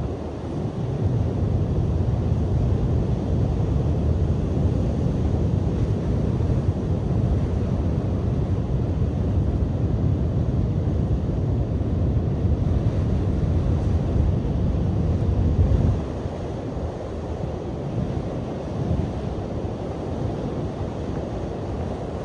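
Strong sea wind buffeting the microphone over surf breaking on the shore, a steady low rumble. It eases about three-quarters of the way through.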